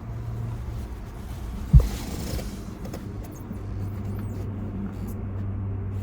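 Steady low hum of a vehicle, with one sharp thump about two seconds in followed by a brief hiss.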